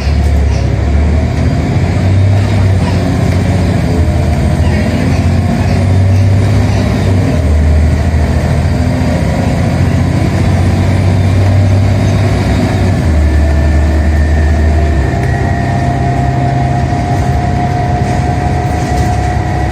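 Scania Omnicity single-deck bus heard from on board: its diesel engine pulls under load, the low engine note shifting several times as the ZF automatic gearbox changes gear. A thin whine rises slowly in the second half.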